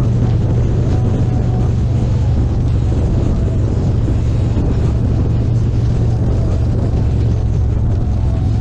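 Harley-Davidson Street Glide Special's V-twin engine running steadily under way, with rushing wind and road noise.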